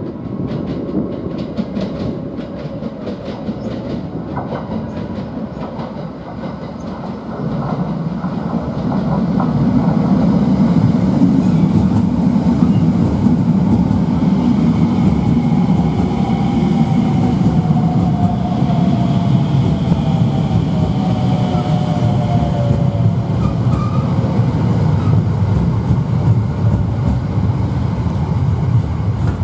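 JR 285 series Sunrise Express electric train pulling into the station and slowing past the platform: wheel-on-rail rumble with clickety-clack over the rail joints. It grows loud about eight to ten seconds in as the cars run by, with a faint falling whine as it brakes.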